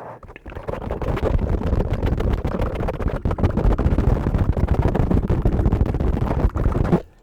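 A brush rubbed quickly and repeatedly over a microphone: dense, scratchy rustling full of rapid crackles, strong in the low end. It builds up within the first second and cuts off suddenly just before the end.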